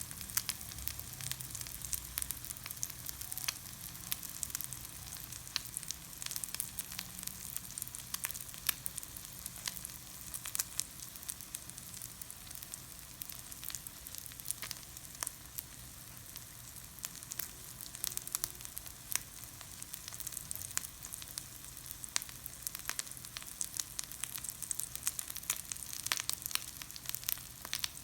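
Food frying in hot oil in a pan: a steady sizzle with frequent sharp crackles and pops throughout.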